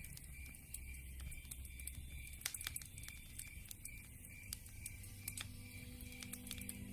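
Wood fire crackling: irregular sharp pops and ticks of varying loudness from burning logs.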